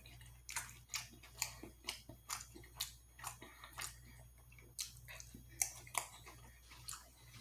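Close-miked chewing and mouth sounds: a run of short, wet clicks and smacks, irregular at roughly two a second, over a faint steady low hum.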